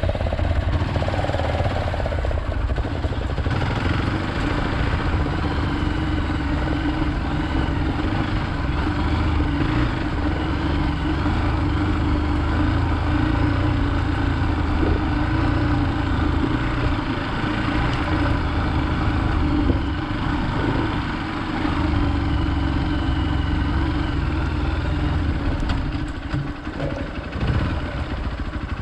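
Hero Xpulse 200's single-cylinder engine running steadily, with small dips in level about twenty seconds in and again near the end.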